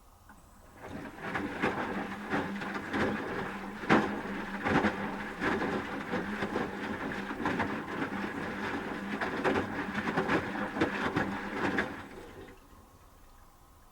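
Asko Quattro W6098X washing machine in its wash phase: the drum starts turning about a second in, tumbling the wet laundry with a steady motor hum and many small knocks and splashes, then stops about a second and a half before the end.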